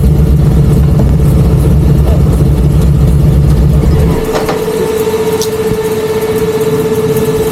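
Motorcycle engine running on the road with a loud, low drone. About four seconds in the drone drops away, as if the throttle is closed, and a steady higher hum carries on.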